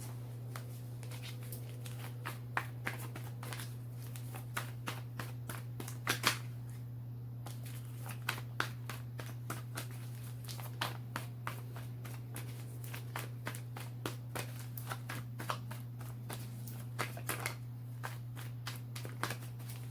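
A deck of tarot cards being shuffled by hand: a long run of irregular soft card flicks and taps, over a steady low hum.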